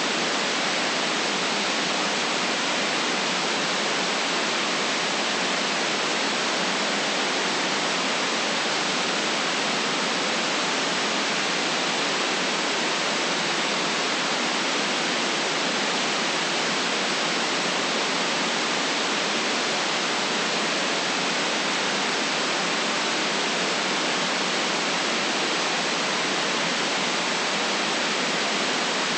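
Steady, unchanging white noise: an even hiss with no deep rumble and nothing in it that comes or goes.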